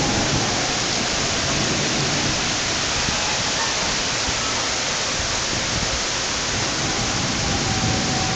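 Heavy cloudburst rain pouring down onto a street, a steady, loud hiss with no breaks.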